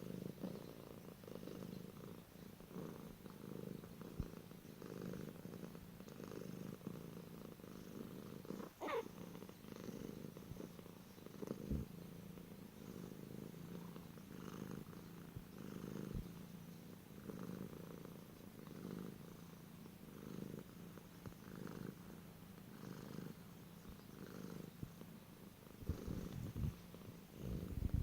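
A domestic cat purring close up, a low rumble that swells and fades in steady rhythmic pulses. About nine seconds in comes a brief high squeak that glides up and back down in pitch, and there are a few soft bumps.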